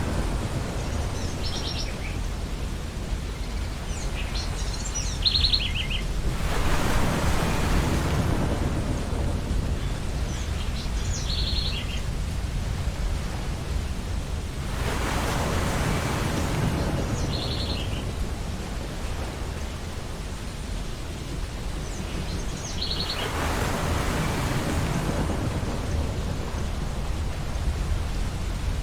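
Ocean surf on a beach: a steady low wash with a wave breaking and rushing in about every eight seconds, three times. Short, high bird calls repeat every five or six seconds over the surf.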